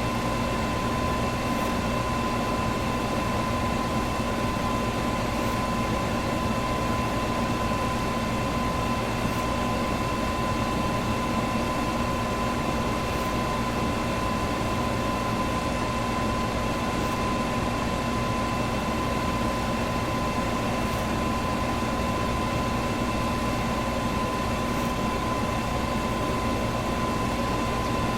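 Electric fan running steadily: an even rushing whir of air with a constant hum tone, and a faint tick about every four seconds.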